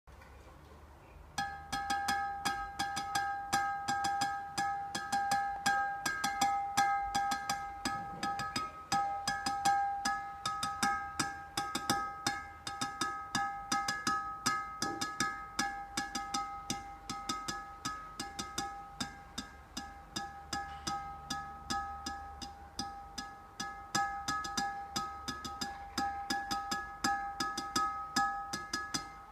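Someone tapping out the rhythm of a song's melody: quick, uneven series of sharp taps, each with the same ringing tone, starting about a second and a half in.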